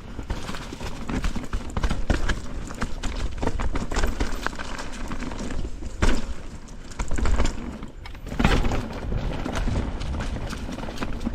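Mountain bike clattering down a rough, rocky downhill trail: tyres knocking over rocks and roots and the bike rattling continuously over a low rumble, with a few harder hits partway through.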